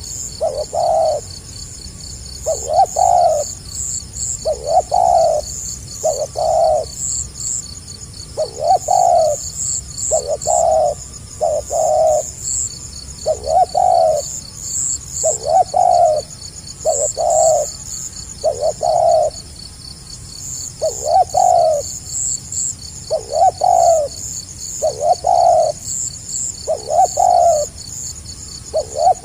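Spotted dove (tekukur) cooing over and over in the stuttering 'gagap' style, its low coos coming in close pairs and triplets every second or two. A steady, fast, high-pitched chirping runs behind it.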